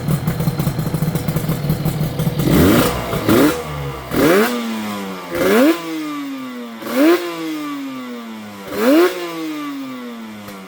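Yamaha RZ250 (4L3) two-stroke parallel twin with SS Ishii TZ expansion chambers and PWK28 carburettors, idling roughly for about two seconds and then blipped six times in quick succession. Each blip rises sharply in pitch and sinks slowly back toward idle.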